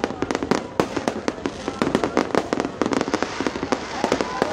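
Aerial fireworks going off in quick, irregular succession: many sharp bangs and crackles overlapping one another.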